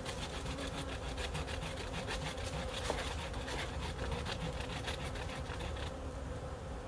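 Quick, rhythmic scraping strokes of a hand tool on wood as a homemade wooden hive base is shaved down to fit, stopping near the end, over the steady hum of honey bees.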